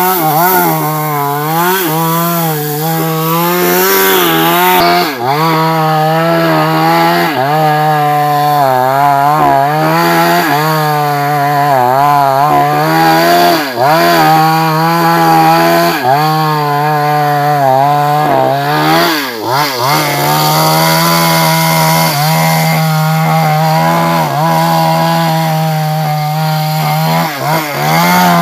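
Two-stroke New West chainsaw running at high revs while cutting into a large sengon trunk, its engine note wavering up and down as the chain bites into the wood. About two-thirds of the way through, the pitch dips briefly before picking back up.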